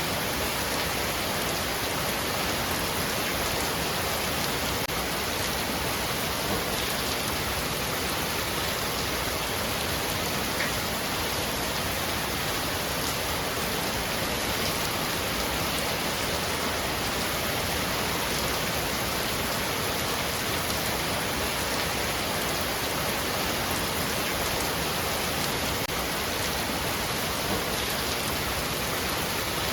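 Heavy rain falling steadily on a roof: a dense, even hiss with a few slightly louder drops here and there.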